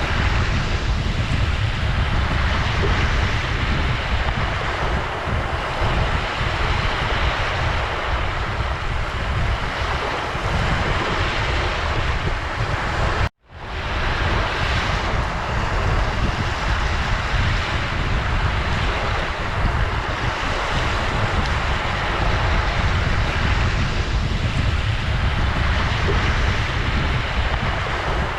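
Ocean surf: waves washing onto a shore in slow, steady swells, with wind buffeting the microphone and a heavy low rumble. The sound cuts out for a split second about halfway through.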